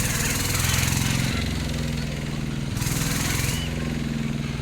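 A small engine running with a rapid pulsing beat, its pitch stepping down about a second in, up again near three seconds, then down once more.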